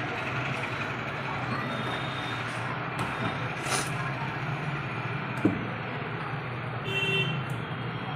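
Steady background rumble and hiss, like distant traffic, with one sharp click about five and a half seconds in.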